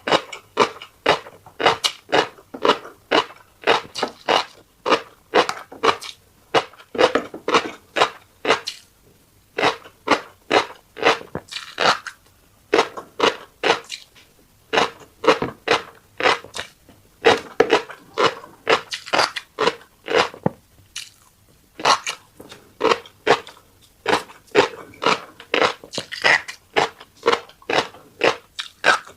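Close-miked chewing of a fish roe and seafood rice bowl: quick crunchy chews about three a second, with a few short pauses.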